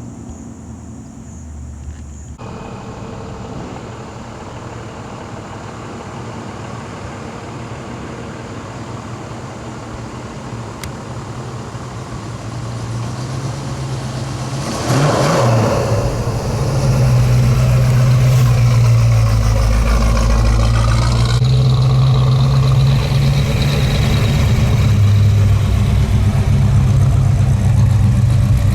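Car engine running, growing steadily louder; about halfway in, after a brief burst, it becomes a loud, deep, uneven engine rumble that continues to the end.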